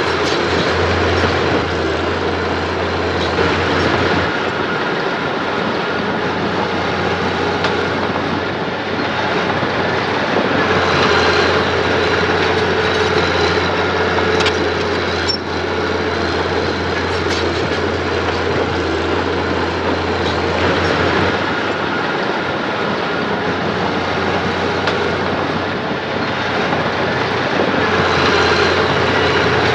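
Heavy diesel earth-moving machinery running steadily under load, with a few short clicks.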